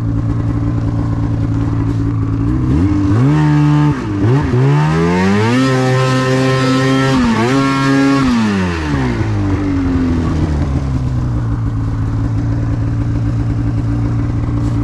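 Snowmobile engine idling, then revved up hard, dipping briefly and climbing again, before dropping back to idle. The sled is stuck in a snow drift and the track does not seem to spin under the revs.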